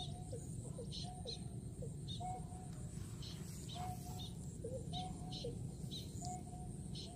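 A bird call repeating about once a second, each a short whistled note with quick lower notes around it, over a steady low background noise.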